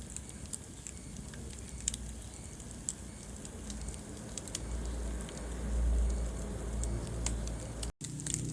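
Wood fire crackling in a fireplace: scattered sharp pops and snaps over a steady low rumble of flames that swells about six seconds in. The sound cuts out completely for a split second near the end.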